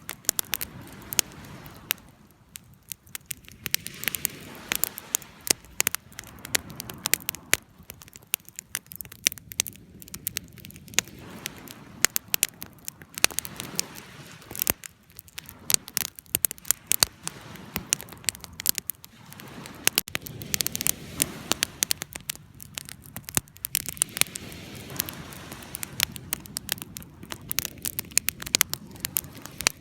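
Wood fire burning, with dense, irregular sharp crackles and pops over a soft low hiss.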